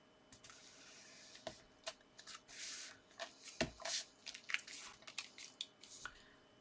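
Paper and card being handled on a craft table: rustling and sliding paper with a run of small taps and clicks, and one duller knock about three and a half seconds in.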